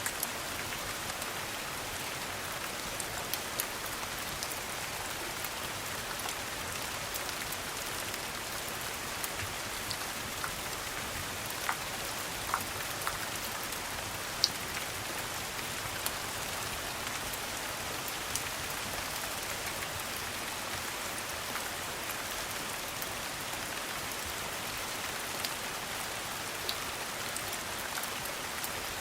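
Steady rain pattering, with occasional short sharp clicks scattered through it, the loudest about halfway in.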